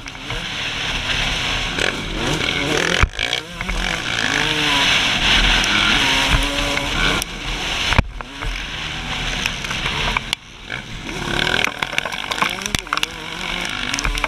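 Suzuki RM125's 125 cc single-cylinder two-stroke engine revving up and down hard while riding a motocross track, the pitch climbing and falling with the throttle. The sound cuts out briefly a few times where the throttle is chopped.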